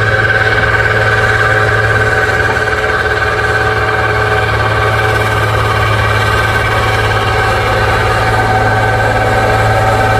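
Diesel truck engine running steadily at constant revs while climbing a steep grade under load.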